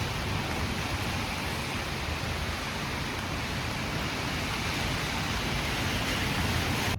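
Heavy typhoon rain falling steadily: an even, unbroken hiss.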